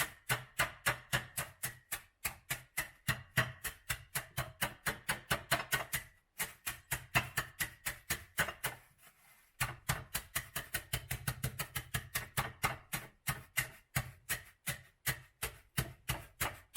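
Kitchen knife chopping quickly on a cutting board, an even run of sharp knocks about five a second, pausing briefly twice.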